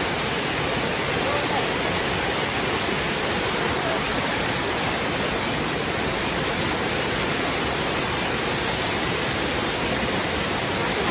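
Water cascading down a waterfall in a steady, unbroken rush.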